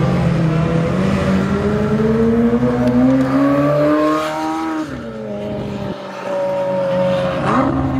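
McLaren supercar engine accelerating hard past the listener. The engine note climbs for about four and a half seconds, drops at an upshift, climbs again, then drops at a second shift near the end.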